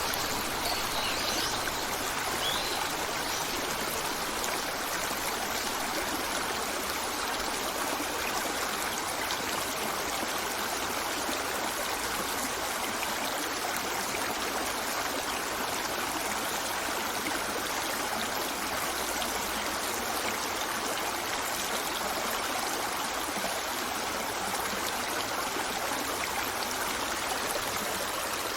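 Flowing stream water running steadily. A few faint bird chirps sound in the first couple of seconds.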